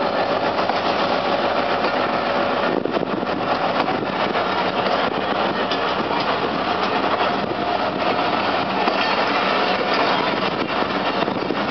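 Passenger coaches rolling past at close range, their wheels rattling steadily over the rails.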